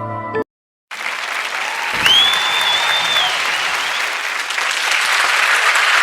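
A marimba-like chime tune cuts off just after the start. After a brief silence, a large crowd starts applauding and cheering. About two seconds in, one loud whistle rises, holds for about a second and falls away.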